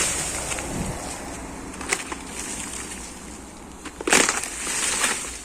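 Dry ground debris being crunched and scraped by hand or tool, with short crunches about two seconds in and a louder one about four seconds in.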